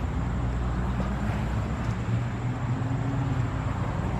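Steady low rumble of road traffic, with a vehicle engine hum that rises slightly about three seconds in.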